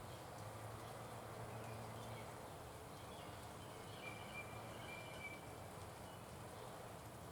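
Faint outdoor ambience with a few short, high bird chirps about four to five seconds in, over a low steady hum.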